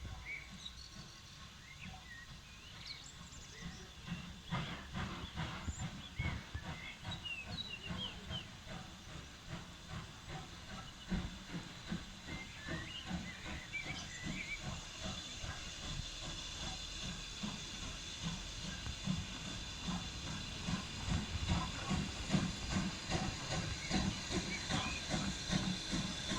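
BR Standard Class 2MT 2-6-0 steam locomotive drawing in: steam hissing and a run of rhythmic clanking, growing louder as it approaches, the hiss strongest in the second half.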